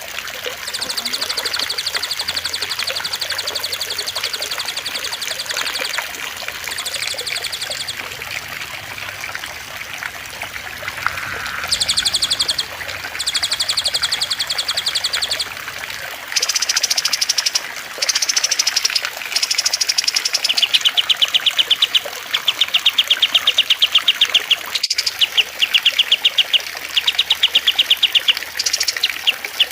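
Songbirds singing rapid, high-pitched trills, some held for several seconds and others in short repeated bursts, over a steady trickle of water. A single sharp click sounds near the end.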